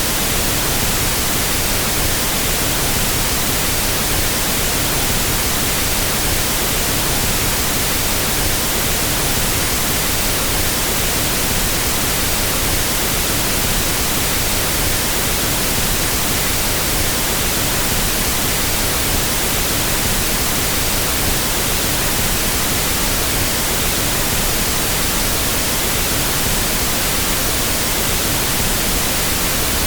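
Pink noise test signal used for equalizing sound systems: a loud, steady, even hiss with no changes.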